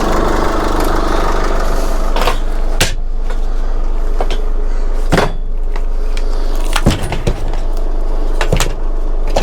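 Scrap being handled and loaded into a van: about half a dozen separate knocks and clunks, over a steady engine drone.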